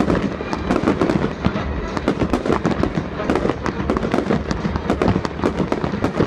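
Aerial fireworks bursting: a dense, unbroken run of sharp bangs and crackles, several every second.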